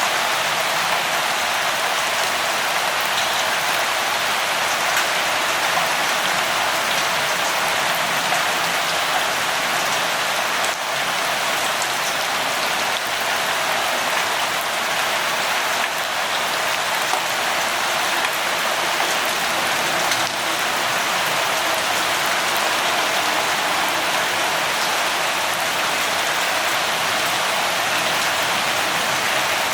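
Steady light rain falling, an even patter of many drops with scattered individual drop ticks.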